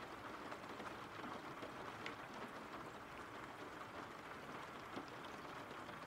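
Steady rain falling, an even soft hiss with a few sharper drops ticking through it.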